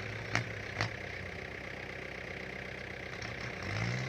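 Kubota L5018 tractor's diesel engine running steadily. Two short sharp knocks come in the first second, and the engine note rises near the end as it takes up the load of pulling a tractor stuck in the mud.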